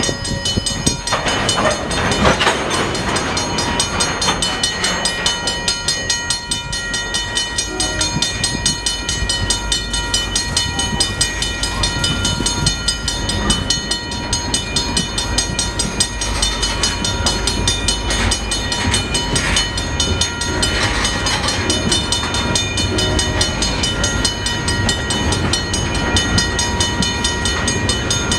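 Freight train of covered cement hopper cars rolling steadily past, wheels clacking over the rail joints, with the grade-crossing bell ringing in a fast, even rhythm.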